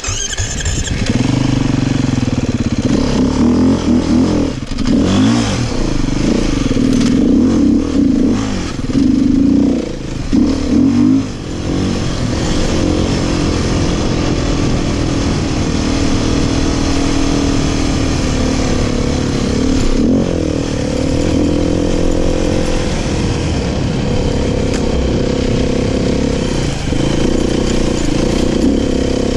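Beta 500 dirt bike's single-cylinder four-stroke engine under way off-road, revving up and down repeatedly for the first ten seconds or so, then holding a steadier pitch, and revving again near the end.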